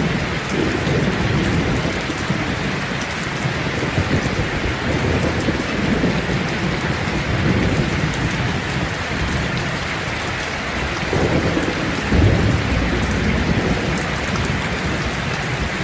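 Steady rain falling in a thunderstorm, with low rolling thunder that swells about twelve seconds in.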